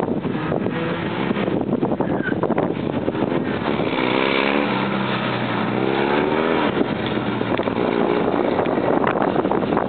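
Small rear-engined Polski Fiat 126p rally car's air-cooled two-cylinder engine revving hard as it is driven through tight turns. The engine note climbs and drops several times in the second half.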